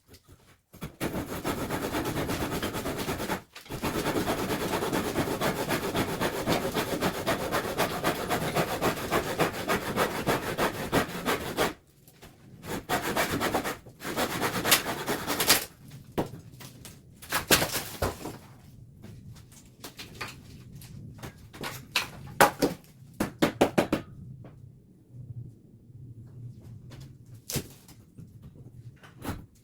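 Hand-tool repair work on wood or old plaster: about ten seconds of fast, steady rasping strokes, like sawing or scraping, then a run of separate knocks and clatters that thins out near the end.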